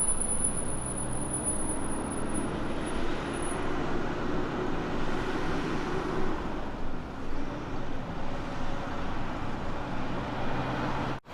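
Kenworth K200 road train's diesel engine running steadily under load, mixed with tyre and road noise. It cuts off suddenly right at the end.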